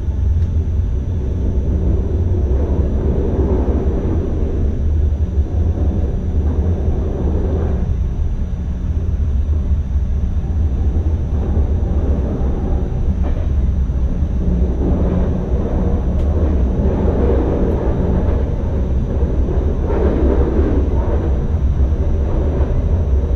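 NS ICM (Koploper) electric multiple unit running along the line, heard from inside the driver's cab: a steady low rumble of wheels on rails and running gear.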